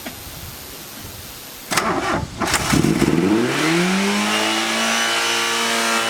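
Car engine cranking briefly, catching, and racing straight up to a high, steady rev that it holds. The throttle is stuck open by the Seafoam fed into the throttle body, so the engine is over-revving unattended.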